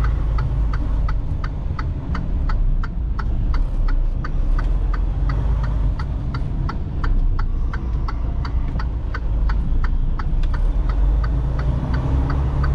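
Semi truck's turn signal ticking steadily, about two to three ticks a second, over the low drone of the diesel engine, heard inside the cab.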